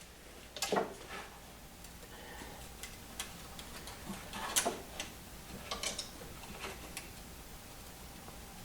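Irregular light clicks and taps, a second or so apart, from plastic cable ties being linked together and handled.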